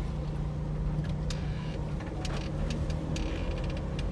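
Car driving, with a steady low engine and road hum and a few light clicks.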